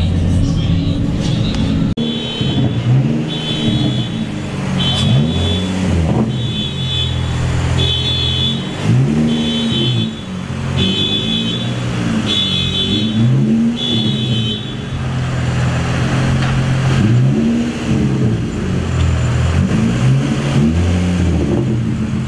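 Car engines revving up and falling back again and again, with a steady idle underneath. A high beep repeats roughly once a second for the first two-thirds.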